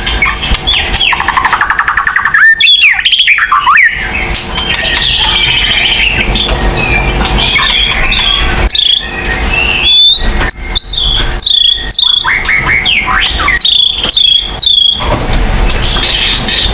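White-rumped shama (murai batu) singing a loud, varied song of quick whistled phrases that slur up and down, broken by rapid trills and sharp notes.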